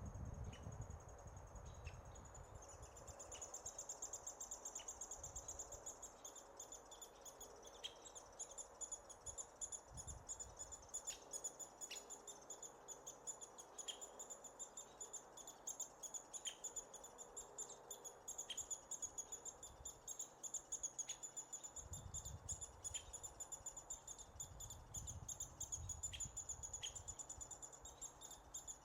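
American three-toed woodpecker nestlings begging: a continuous high, fast-pulsed buzzing chatter that grows louder about three seconds in. Short sharp chip notes are scattered through it at irregular intervals.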